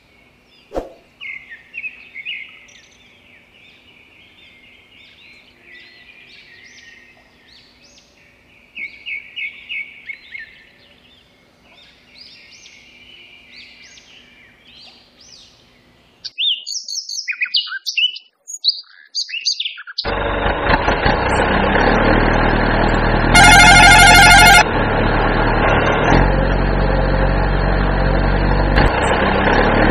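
Birds chirping and calling for about the first sixteen seconds, then a few brighter chirps. About twenty seconds in, a loud, steady truck engine sound effect starts and runs on, with a loud horn-like blast of about a second a few seconds after it starts.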